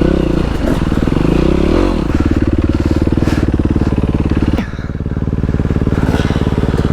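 Dirt bike engine running under way, its pitch rising and falling in the first two seconds, then holding steady before dropping suddenly about four and a half seconds in as the throttle is rolled off.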